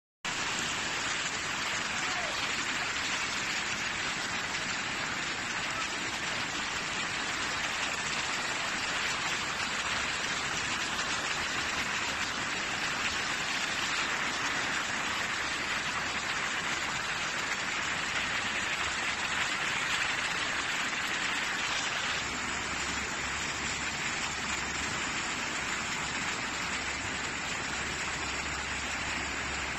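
Steady hiss of heavy rain on a flooded street. A low hum joins about two-thirds of the way through.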